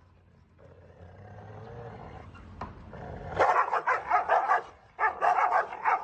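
A dog barking in two quick runs of rapid barks, the first about three and a half seconds in and the second at about five seconds, after a low sound that builds for a couple of seconds before them.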